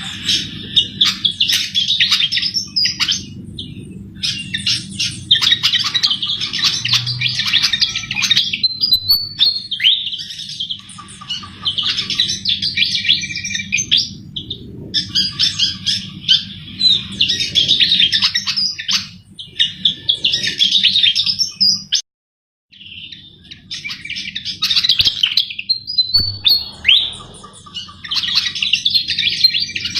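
Sikatan jawa, an Old World flycatcher, singing loud, rapid twittering phrases of a few seconds each, separated by short pauses, over a steady low hum. The sound cuts out completely for under a second about 22 seconds in.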